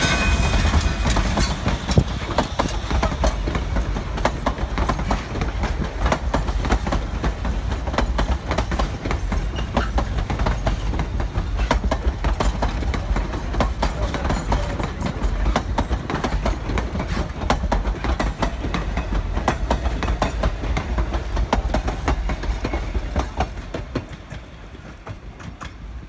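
Durango & Silverton narrow-gauge passenger cars rolling past close by: a dense run of wheel clicks and clacks over rail joints on top of a heavy low rumble. The sound drops off sharply near the end as the last car pulls away.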